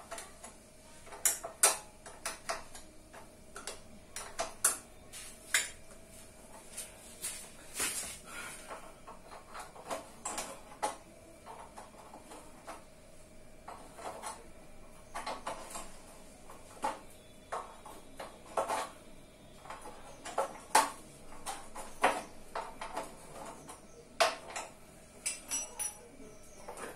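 Irregular metallic clinks and knocks of hand tools and metal motorcycle wheel parts being handled during disassembly, over a faint steady hum.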